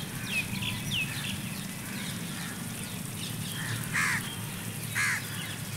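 Birds calling: a few faint, short high chirps in the first second, then two louder short calls about a second apart near the end, over a steady low background noise.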